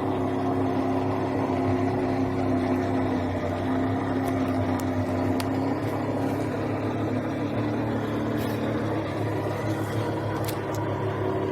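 Small watercraft's engine running steadily at low speed, its pitch shifting slightly a few seconds in.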